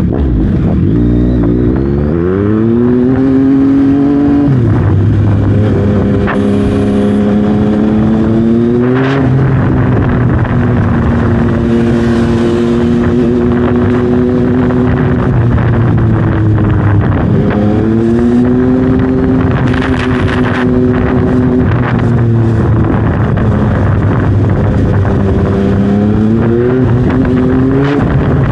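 2021 Yamaha MT-09's 890 cc inline three-cylinder engine through a full Dominator exhaust system, accelerating through the gears. The pitch rises and drops back at two upshifts in the first ten seconds, then holds steady while cruising. It pulls up again past the halfway mark and once more near the end.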